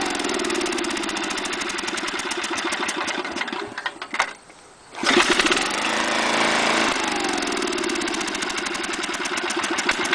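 Snapper lawn mower's Briggs & Stratton engine running at full throttle, stuttering and dying out about three and a half seconds in, then catching again by itself under a second later and running on. It is the warmed-up engine missing and cutting out on its own, a fault the owner cannot explain.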